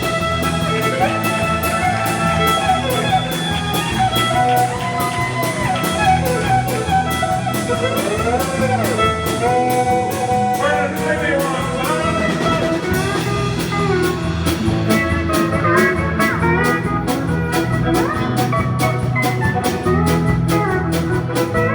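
Live country band playing an instrumental break: a fiddle takes a solo with sliding, bending phrases over guitar, bass and a steady drum beat.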